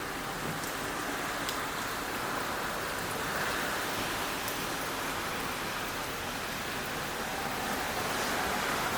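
Typhoon rain falling steadily, a dense hiss that swells a little midway and again near the end, with scattered faint drip ticks.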